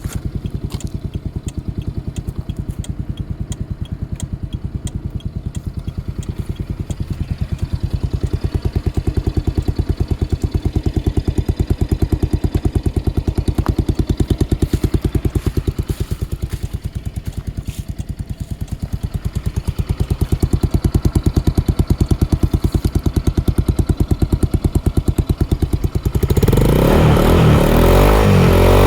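Yamaha Majesty 125 scooter's single-cylinder four-stroke engine idling steadily. Near the end it is revved, with a sudden rise in loudness and pitch.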